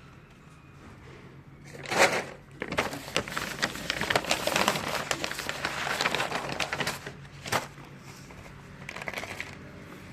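Crinkling and crackling, as of plastic packaging being handled. One loud burst comes about two seconds in, then a dense crackly run of about four seconds, with short bursts near the end.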